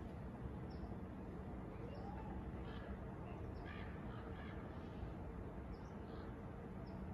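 Scattered short bird calls, several over a few seconds, over faint steady background noise.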